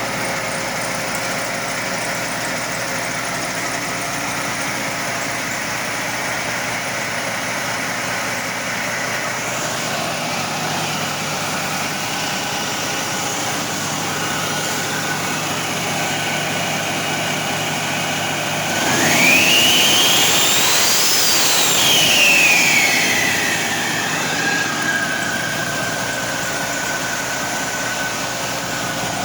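2011 International MaxxForce 13 12.4-litre diesel engine running on a test run, idling steadily. About two-thirds of the way through it is revved: a whine rises sharply in pitch and the engine gets louder, then the whine slowly falls back and settles as the revs drop.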